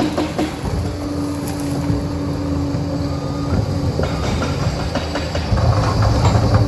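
Liebherr PR 746 crawler dozer running, its steel tracks clattering with many sharp clanks over a steady engine drone and a held tone. The low engine rumble grows louder about two-thirds of the way through.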